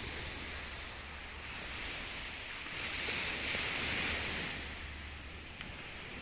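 Sea waves washing in, a rushing noise that swells to its loudest about three to four seconds in and then falls back, over a steady low rumble.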